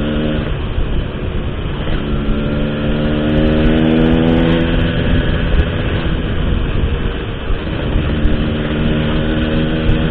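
Motorcycle with an Altech C17 aftermarket exhaust, riding at an easy pace. The exhaust note drops off about half a second in, picks up again around two seconds and climbs gently, then eases and holds steady. A constant low rumble runs underneath.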